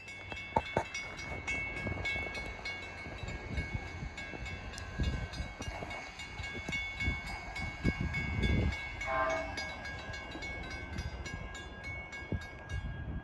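Railway sounds of a distant train: a steady high ringing tone throughout, a short horn-like note about nine seconds in, and gusts of wind buffeting the microphone.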